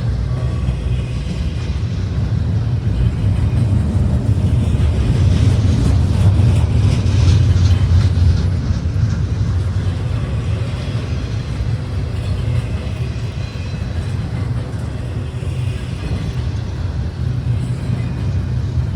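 Steady low rumble of a moving vehicle, growing louder about six to eight seconds in.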